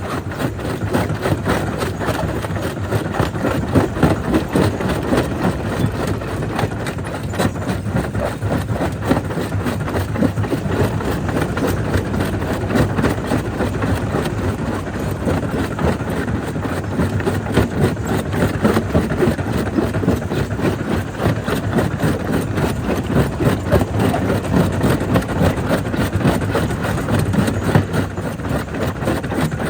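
Jaw crusher running and crushing black stone: a steady, loud mechanical din filled with rapid, closely packed knocks and rattles of rock being broken.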